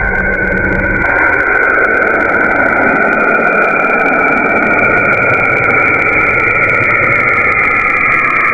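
Space-data sonification of a planet: a steady, eerie hiss with a high whistling drone over it. A lower hum drops out about a second in.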